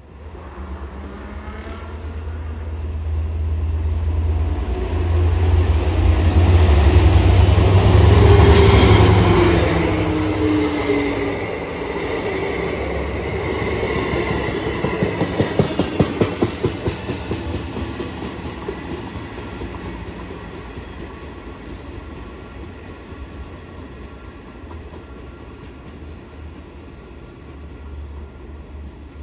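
A Long Island Rail Road train going by on the tracks, growing louder to a peak with a deep hum whose pitch falls as it passes. It is followed by a quick run of clicks from the wheels over rail joints, then the sound fades away.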